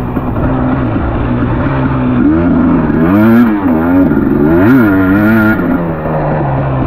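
Dirt bike engine running at a steady pitch, then revving up and down several times, with one sharp rev near the middle, before settling back. It is heard through a rain-wet action-camera microphone that makes it sound boxy.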